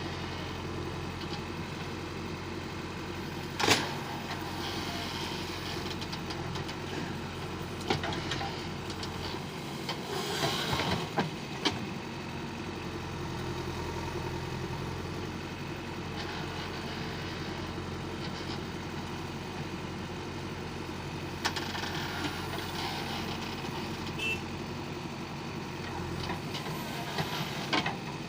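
Heavy diesel machinery engine running steadily at a low, even pitch, with a few short sharp knocks and clanks scattered through it.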